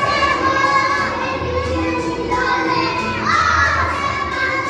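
Many young children's voices at once, a busy overlapping mix of high-pitched talking and calling, with some held notes like singing.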